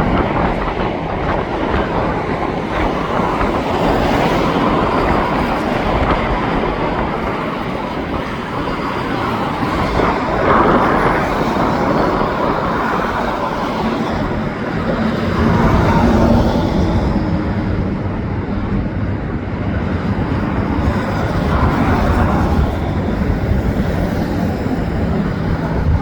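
Autorack freight cars of a slow CN train rolling past, with steady wheel-on-rail rumble and clickety-clack, mixed with highway traffic.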